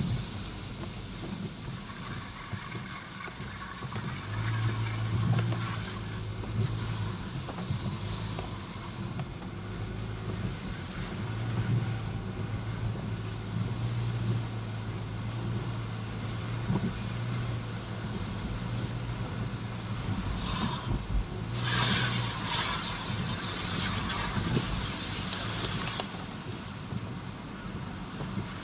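Travelling vehicle: a steady low engine hum under road and wind noise, with a louder rushing hiss for several seconds near the end.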